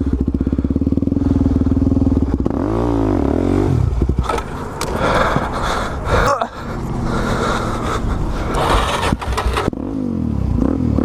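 Suzuki DR-Z400SM supermoto's single-cylinder four-stroke engine under way, steady at first, then revving up and down several times, with a brief drop in the middle.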